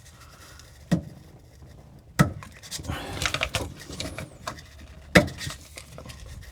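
Three sharp knocks, about a second in, a little after two seconds and just after five seconds, with scraping and rattling between them, as a SharkBite push-fit ball valve is forced onto a short CPVC water supply riser.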